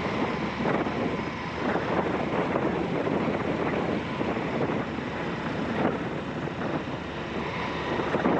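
Wind buffeting an action camera's microphone on a moving motorcycle, over the running V-twin engine of an Aprilia Shiver 750, with gusts now and then.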